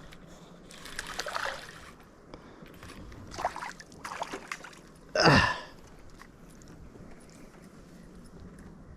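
Water splashing and sloshing around a small fishing boat, in several short bursts with the loudest about five seconds in, as a just-caught fish is brought in and handled.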